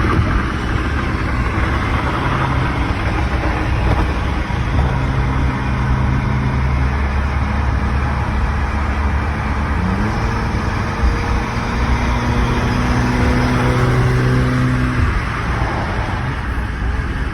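Car engine and road noise while driving at a steady pace, with a short rise in engine pitch about ten seconds in and the engine note easing off a few seconds later.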